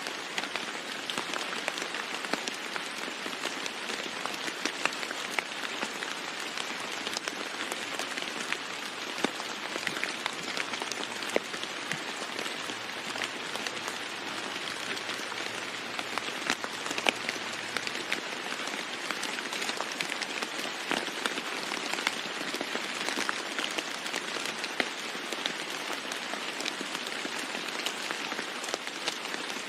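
Steady rain falling on a roof: an even hiss with dense, sharp drop hits scattered through it, and no thunder.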